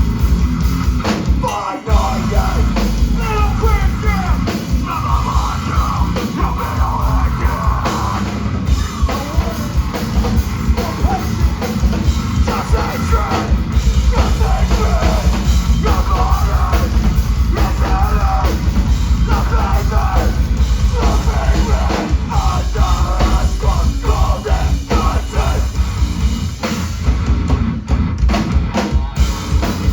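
Live rock band playing loud and unbroken, with a pounding drum kit and shouted vocals over a dense mix.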